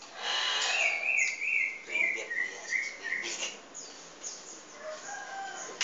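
Bird chirping, with one warbling, wavering call held for about two and a half seconds, shorter chirps around it.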